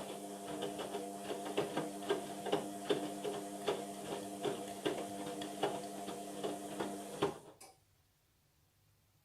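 Indesit washing machine's motor humming as it turns the drum, with steady clicking and clattering from the tumbling load. About seven seconds in the drum stops and it goes almost silent, a pause in the wash tumbling.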